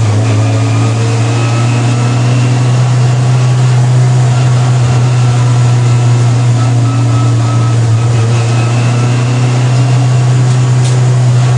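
Honda race car's engine heard from inside the cockpit, running loud at a steady pitch under power, over a haze of road and wind noise.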